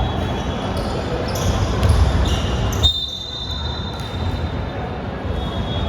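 Basketball game sounds: a ball bouncing on the court and short sneaker squeaks. About three seconds in there is a sharp knock, followed by a steady high tone.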